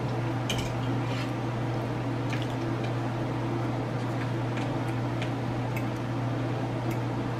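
A person chewing food, with wet smacking and scattered small clicks of a metal fork against a ceramic plate, over a steady low hum.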